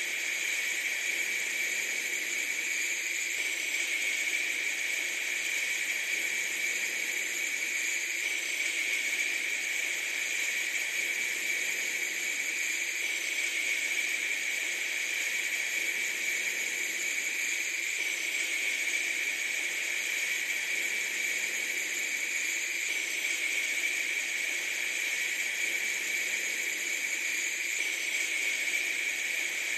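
Steady, unchanging hiss with no beat or rhythm, strongest in the upper-middle range.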